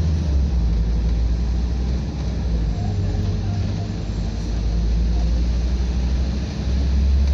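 Scania double-decker bus engine running and road noise while the bus is driven, a loud steady low drone. The engine note changes about three seconds in and again near the end.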